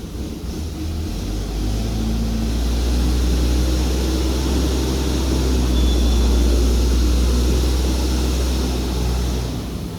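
Electric drive of a band saw log-cutting machine running as a part of the machine is moved into position: a steady low hum that starts about a second and a half in and stops near the end.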